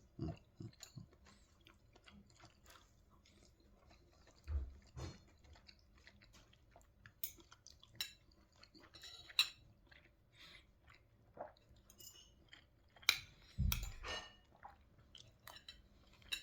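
Close chewing and mouth sounds of people eating, with small clicks and clinks of cutlery against dishes. A couple of soft low thuds, about four and a half seconds in and near the end.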